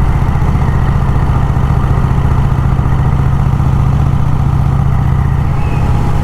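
1951 Vincent Rapide V-twin motorcycle engine running steadily under way, a loud, even low throb from the exhaust.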